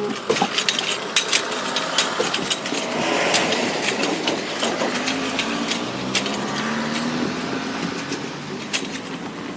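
Class 158 diesel multiple unit passing over the level crossing. Its wheels click sharply and irregularly over rail joints and the crossing. The underfloor diesel engines drone beneath, and their pitch rises about two thirds of the way through as the train picks up power.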